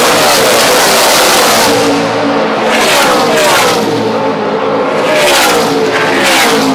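NASCAR Camping World Truck Series race trucks' V8 engines at full throttle as a pack runs by, loud and continuous, with surges about three and five and a half seconds in as trucks sweep past, their pitch dropping.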